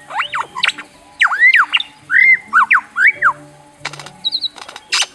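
Superb lyrebird singing: a rapid run of loud whistled notes that sweep up and down, the male's song made of phrases borrowed from other birds' calls. Background music plays underneath.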